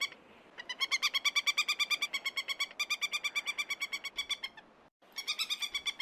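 An animal call: a rapid run of short, high, pitched notes, about a dozen a second, in runs broken by brief gaps.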